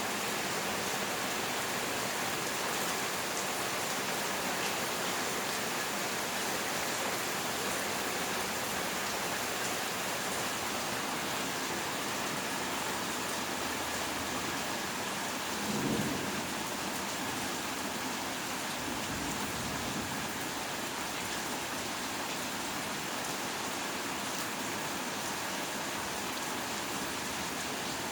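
Heavy rain falling steadily in a thunderstorm, with a short low rumble of thunder a little past the middle that trails off over the next few seconds.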